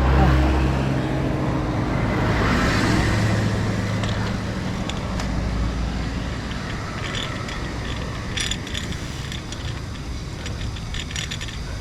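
A motor vehicle passing on the road: its engine hum and tyre noise swell about two to three seconds in, then fade. Scattered light clicks come later.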